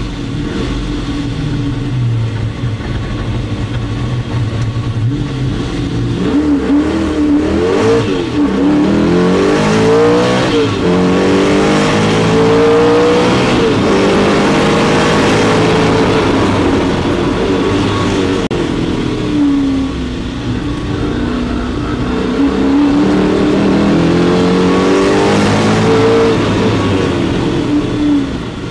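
Ultima GTR's mid-mounted V8 heard from inside the cockpit under hard acceleration on a flying lap. The revs climb and drop sharply again and again as it is shifted up through the gears. The pitch and level fall away about two-thirds of the way through and again just before the end as the driver lifts off.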